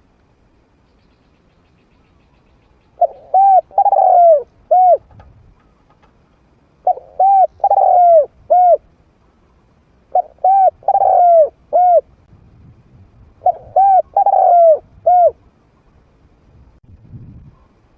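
Trained male spotted dove cooing, a decoy bird's call used to lure wild doves. It repeats a phrase of four or five arched coos about every three to four seconds, four phrases in all, the first starting about three seconds in.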